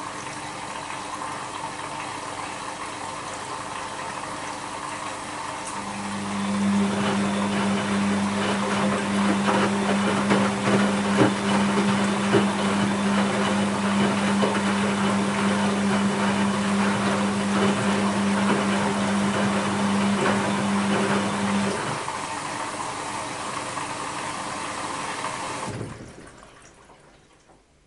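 Bosch WAB28220 front-loading washing machine moving water through its drum. A steady electric hum joins the water sound about six seconds in and stops about twenty-two seconds in. The whole sound falls away near the end.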